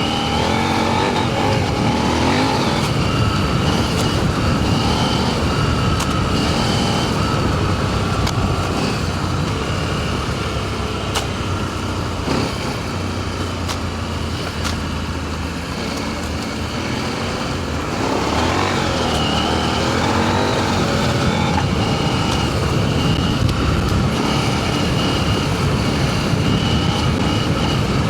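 Adventure motorcycle engine running under way on a dirt trail, heard through a helmet microphone along with wind and tyre noise. The engine eases off through the middle and picks up again about two-thirds of the way through.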